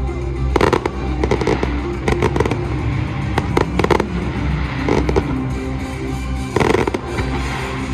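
Fireworks going off in clusters of bangs and crackles, with music playing throughout.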